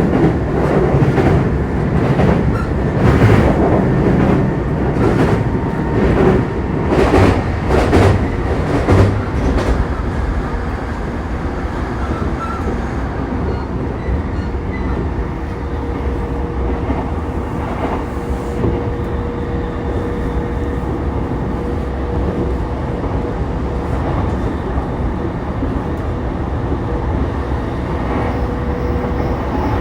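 Running noise of a JR East E233-3000 series electric train heard from inside the car. Wheels clack over rail joints and points through roughly the first ten seconds, then the ride settles into a steadier rumble with a faint steady whine.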